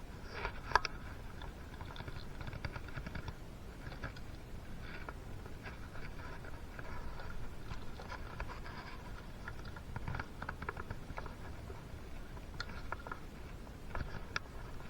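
Light clicks and scraping of metal parts and tools being handled during two-stroke piston fitting, with a few sharper ticks near the start and near the end.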